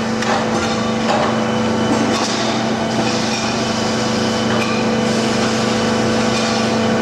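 CNC pipe bender running as it bends steel exhaust tubing: a steady machine hum with knocks from the bending head and stretches of hissing.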